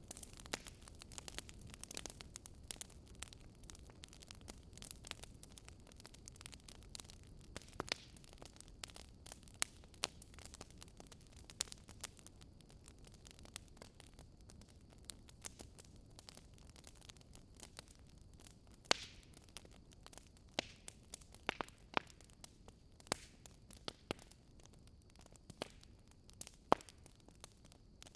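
Wood fire burning in a fireplace: a low steady hiss with irregular crackles and sharp pops, several louder pops in the second half.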